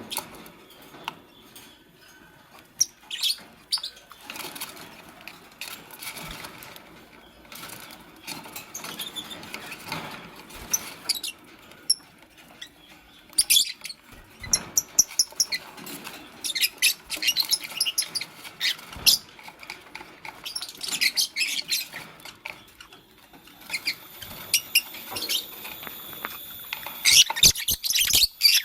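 Fischer's lovebirds chirping in quick bursts of short, high calls, with fluttering and rustling between them. The chirping grows busier in the second half.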